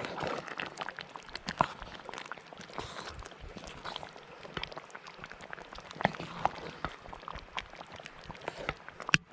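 Wood campfire crackling: irregular sharp snaps and pops over a steady hiss, with a quick cluster of louder snaps near the end.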